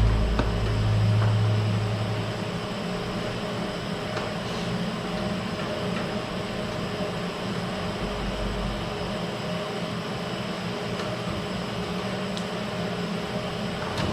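Steady mechanical hum with a few fixed tones, and a deeper drone underneath that fades out about two seconds in.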